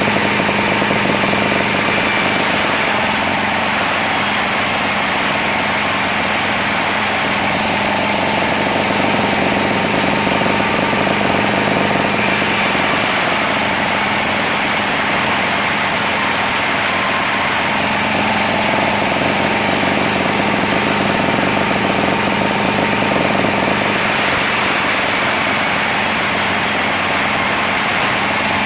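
Sawmill machinery running steadily, a continuous engine drone that holds one pitch and level throughout.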